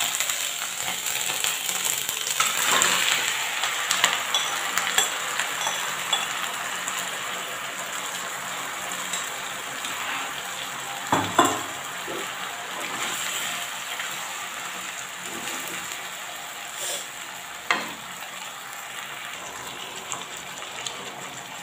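Spice-coated cauliflower florets sizzling as they fry in hot oil and ghee in a nonstick kadai, being stirred; the sizzle slowly quietens. A spatula knocks sharply against the pan about halfway through and again near the end.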